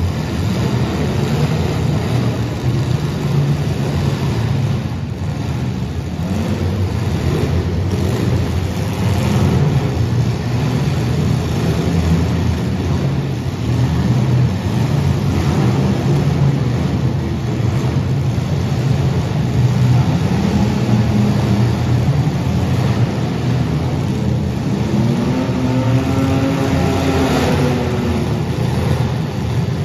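Engines of compact demolition-derby cars running hard and revving, a continuous drone of several engines. One engine revs up and back down near the end.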